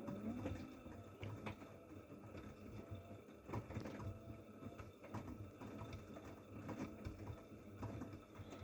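AEG washing machine drum turning during the prewash, with a low motor rumble and irregular clicks and knocks as the load tumbles.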